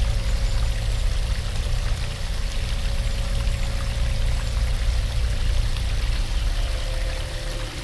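Waterfall rushing steadily, a continuous loud water noise heaviest in the deep rumble.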